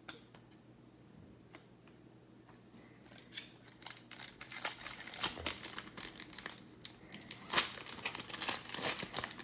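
Foil wrapper of a trading-card pack being opened and crinkled: irregular sharp crackles that start about three seconds in.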